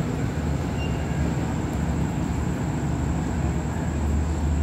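Diesel-hauled passenger express train pulling out and moving away: a steady low rumble of its engine and rolling wheels.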